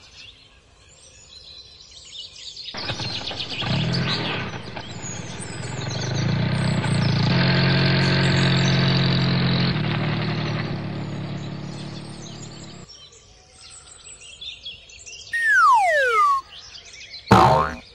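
A motor running with a steady hum, building over several seconds and then fading and stopping after about ten seconds. Birds chirp faintly throughout, a high whistle slides steeply down near the end, and there are sharp clicks.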